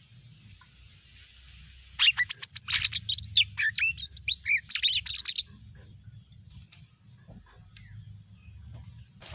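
Cucak ijo mini, a small green leafbird, singing a loud burst of rapid, varied whistled notes and sweeping chirps for about three and a half seconds, starting about two seconds in.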